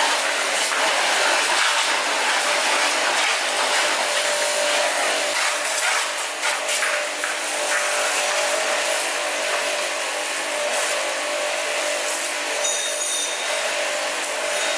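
Steady machine noise: a motor running with a constant hum under a heavy hiss.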